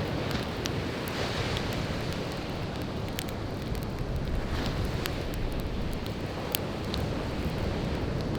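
Firewood campfire crackling with scattered sharp pops, over a steady low rush of breaking surf and wind.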